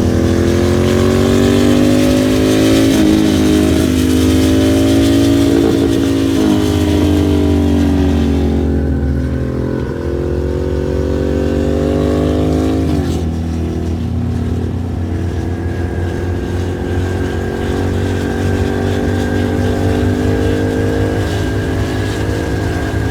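A Ducati motorcycle's V-twin engine running under load, its pitch slowly rising and easing off, then climbing again and dropping sharply about halfway through as it shifts up, before running steadier at a more even pitch over a constant low drone.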